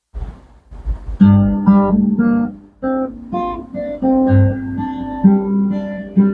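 Solo acoustic guitar playing a slow piece, plucked bass notes ringing under a melody of single notes. The first notes come in about a second in, after a faint low rumble.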